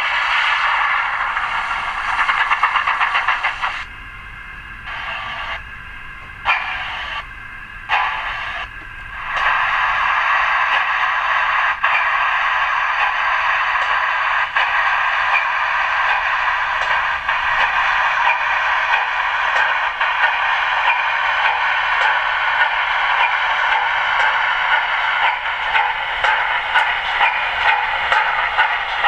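OO gauge model steam locomotives running on a layout, their sound sounding thin and tinny, as if from a small onboard speaker. The sound drops away and returns several times in the first third, then runs steadily, with a faint regular beat near the end.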